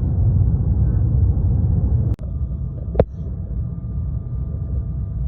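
Steady low rumble of an airliner's cabin noise. About two seconds in it cuts abruptly to a quieter rumble with a faint steady hum. A single sharp knock follows about a second later.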